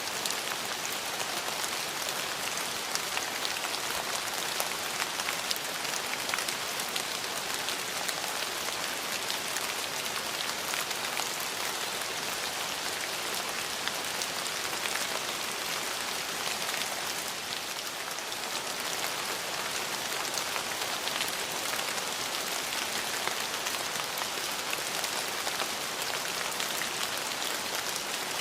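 Steady rain falling, with a dense patter of many small drops hitting a surface.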